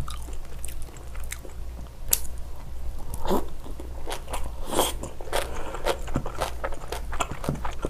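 Close-miked eating sounds: wet chewing and lip smacking on spoonfuls of spicy stir-fried seafood, with many short irregular clicks.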